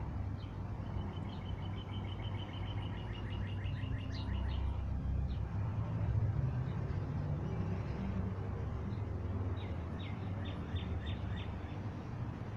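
A songbird singing: a fast trill of repeated high chirps in the first few seconds, then a short run of about six falling chirps near the end, over a steady low background rumble.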